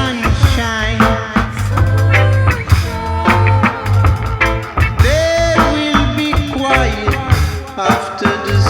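Reggae band playing, with a deep, prominent bass line under drums and a melody.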